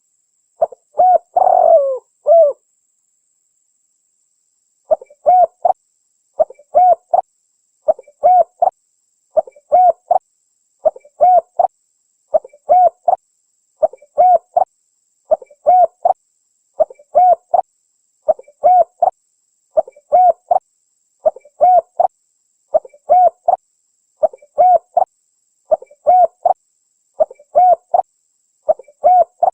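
Spotted dove (tekukur) cooing: short phrases of a few low coos, repeated at an even pace about every second and a half after a brief pause near the start, with dead silence between phrases. This is the clean, looped sound of a call recording played to lure wild spotted doves.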